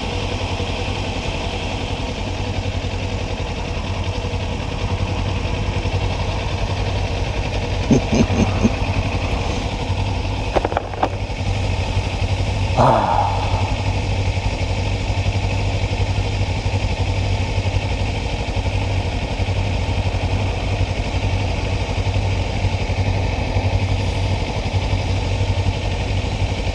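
Kawasaki Ninja 400's parallel-twin engine idling steadily at a constant pitch, with a few brief clicks partway through.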